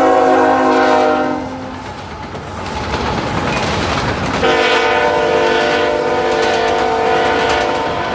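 Train horn blowing a long blast that cuts off about a second in, then the rumble of the passing train, then a second long blast starting about halfway through and holding almost to the end.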